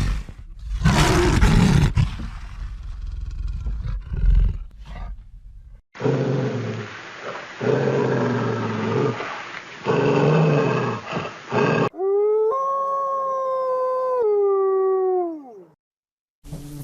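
A run of animal call sound effects, one clip after another. First come loud, rough roaring and growling calls. About twelve seconds in, a clear, long howl steps down in pitch once and falls away at the end.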